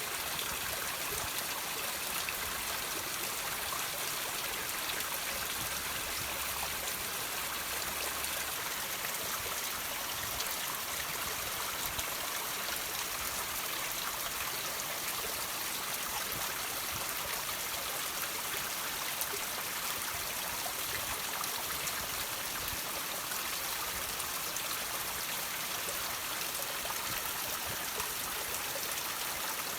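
Water trickling and dripping over rocks: a steady hiss of running water flecked with small drip ticks.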